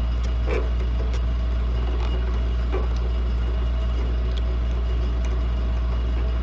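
Steady low mechanical hum that runs unchanged throughout, with a few faint clicks of hand tools on metal.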